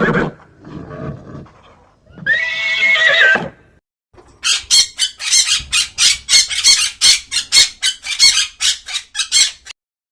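Animal calls: a short pitched call about two seconds in, then a long run of rapid, harsh call notes, about five a second, that stops abruptly near the end.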